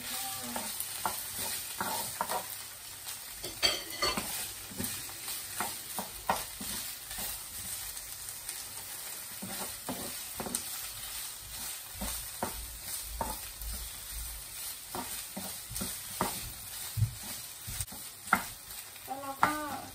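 Fish balls sizzling in hot oil and red curry paste in a frying pan, stirred with a wooden spatula that scrapes and knocks against the pan at irregular moments throughout.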